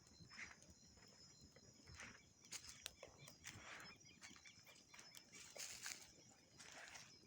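Faint crackling of a burning wood campfire, with irregular small pops and short hissy flares.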